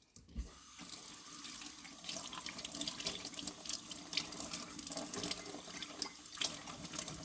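Tap water starts running about half a second in, then rushes steadily into a sink and splashes over a mug being rinsed of dish soap by hand.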